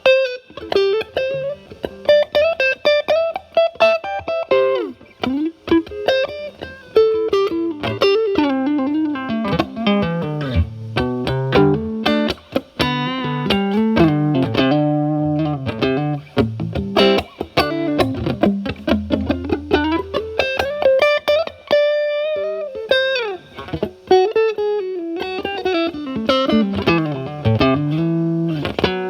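Stratocaster played through a Paul Cochrane Timmy overdrive pedal, gain at about 12 o'clock, into a Marshall Valvestate amp's clean channel. It plays a lightly overdriven single-note lead line with frequent string bends and slides.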